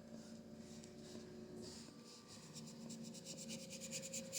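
Paintbrush working acrylic paint on a canvas, faint at first, then a run of rapid short scrubbing strokes in the second half. A steady faint hum lies underneath.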